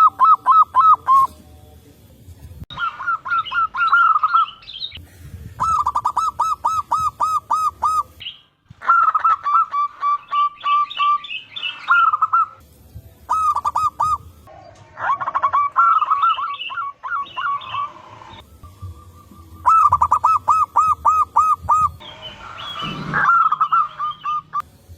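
Zebra doves (perkutut) cooing: bout after bout of quick, evenly repeated notes, each bout lasting a second or two, with birds answering one another.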